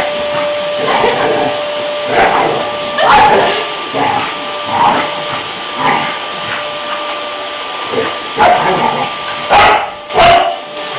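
A dog barking repeatedly at a running vacuum cleaner, whose steady motor hum carries on underneath. The barks come in irregular single bursts every second or two, the loudest two near the end.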